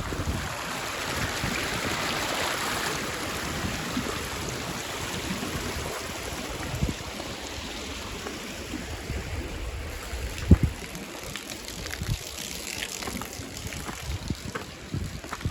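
Running stream water, a steady rush, with wind buffeting the microphone and a sharp knock about ten seconds in.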